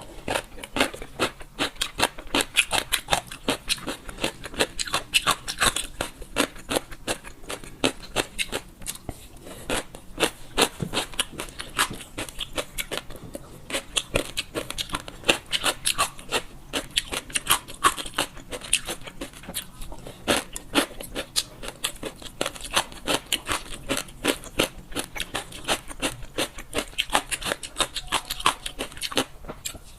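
Close-miked chewing of crunchy rehydrated gongcai (dried celtuce stems): a steady run of crisp crunches, several a second.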